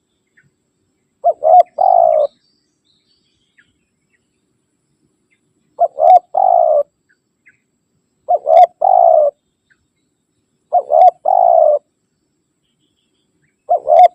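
Spotted dove (tekukur) cooing its challenge call to a rival: a three-note phrase of two short coos then a longer one, repeated about every two and a half seconds, five times.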